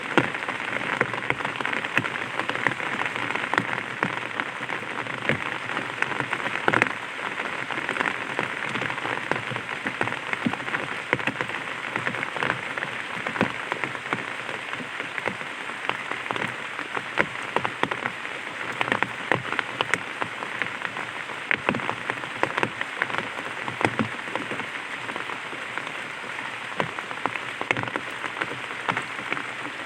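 Light rain pattering on an umbrella: a steady hiss of rain with many small, irregular drop taps.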